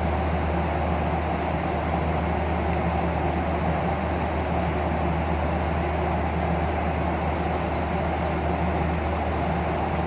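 Steady cabin drone of a Boeing 737 airliner in flight: engine and airflow noise heard from inside the cabin, with a low hum underneath.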